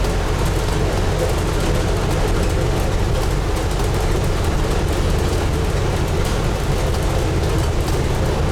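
Steady onboard noise of a Scania N250UD double-decker bus heard from inside: the low drone of its five-cylinder diesel engine running under a constant haze of road and body noise.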